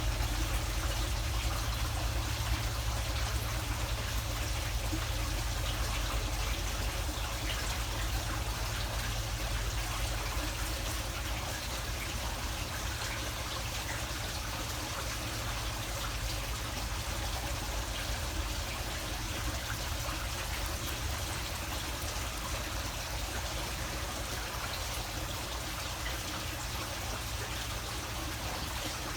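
Steady trickling of running water, with a low rumble underneath.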